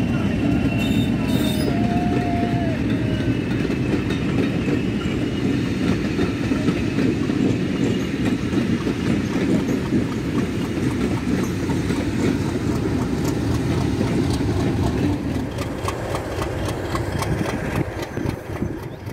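Diesel-hauled train of passenger coaches passing, wheels rolling and clicking over rail joints, with the engine of the Class 50 locomotive on the train running as it goes by. It grows quieter near the end.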